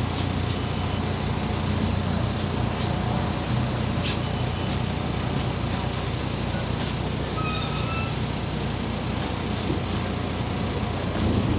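Inside a MAZ 203 city bus on the move: a steady diesel engine hum with road noise and a few light rattles. There is a short high squeal about seven seconds in, and the engine picks up near the end.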